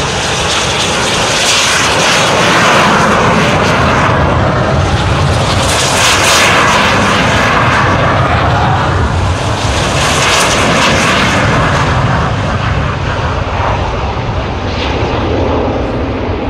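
Red Arrows BAE Hawk T1 jet trainers taking off at full power, their jet engines swelling in several loud waves as successive aircraft go past, then easing toward the end.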